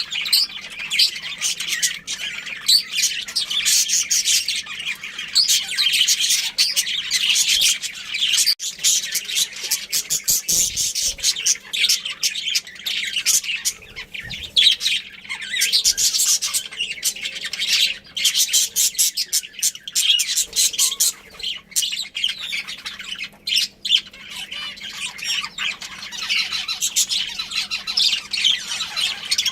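Budgerigars chirping and chattering nonstop: a dense run of quick, high, scratchy calls with no pauses.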